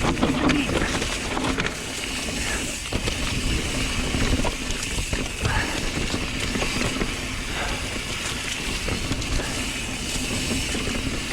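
Mountain bike ridden up a steep dirt trail: a steady rumble and hiss of tyres and drivetrain with scattered small clicks and knocks.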